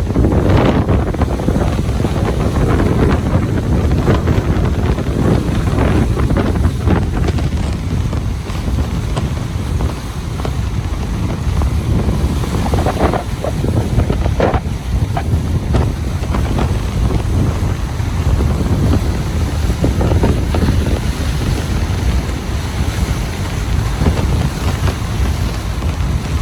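Ocean surf washing onto a beach, with strong wind buffeting the microphone and giving a heavy low rumble.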